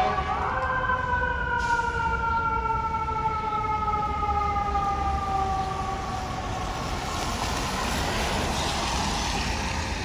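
Fire truck siren giving a short rise, then winding down slowly, its pitch falling and fading over about six seconds, over a low engine and traffic rumble.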